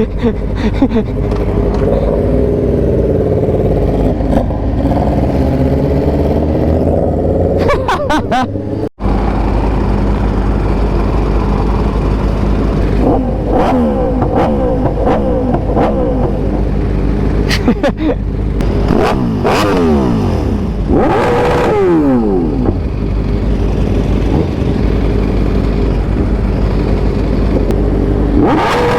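Sport motorcycle engines running and revving, the pitch rising and falling several times with repeated sharp falling sweeps in the second half. The sound breaks off abruptly about nine seconds in and resumes.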